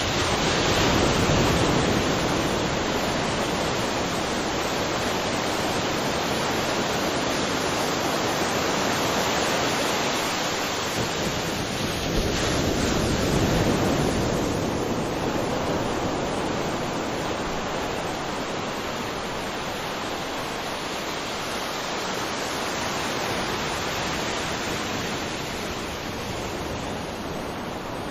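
Waterfall: a steady rush of falling water that swells a little near the start and again about twelve seconds in, easing slightly toward the end.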